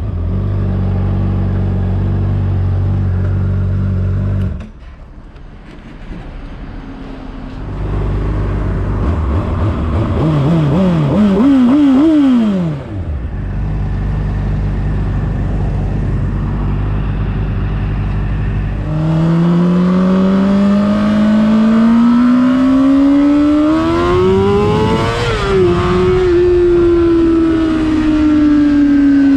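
Honda CBR600RR inline-four engine running low and steady, then briefly quieter; a quick run of rising revs falls away about halfway through. In the last third it pulls in one long climb to high revs, then its pitch slowly falls.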